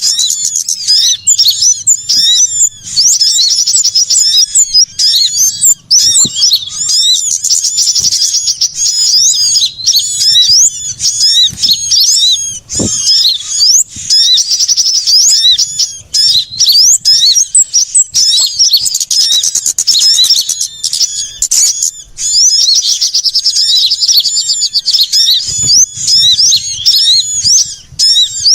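Dense, busy chorus of many small songbirds chirping and twittering rapidly and without pause, high-pitched. It is an agitated, noisy calling mix of the kind used as a lure to draw small birds such as sunbirds in.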